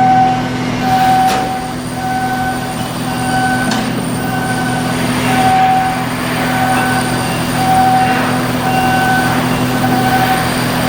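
An electronic warning beeper sounding about once a second, each beep about half a second long, over a steady machinery hum.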